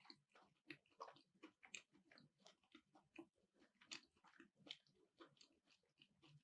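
Faint, close chewing of a keto sushi roll made of cauliflower rice and cream cheese, with soft wet mouth clicks and smacks at an irregular rhythm.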